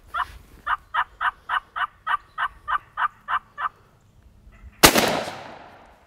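A series of about a dozen evenly spaced turkey yelps, roughly three a second, then a single loud shotgun shot about five seconds in that rings off with a long echo: a shot that misses the gobbler.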